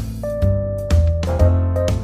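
Background music: a light piano and keyboard tune over a steady bass line.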